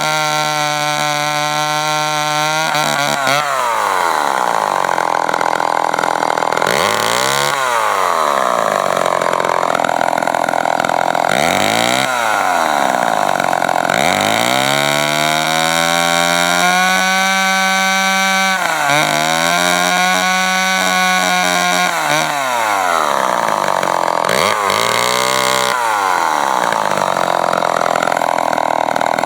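Remington SL9 chainsaw's two-stroke engine running. It idles steadily, then is revved to high speed about three seconds in and held there, dropping briefly and climbing back several times as the throttle is let off and opened again.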